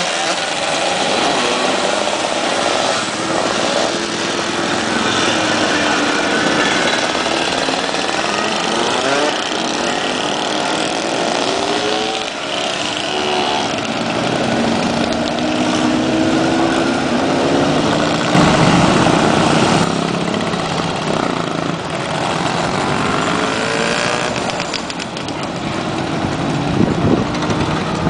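Vintage motorcycles of various makes riding past one after another, several engines at once rising and falling in pitch as they go by, with one passing louder about two-thirds of the way through.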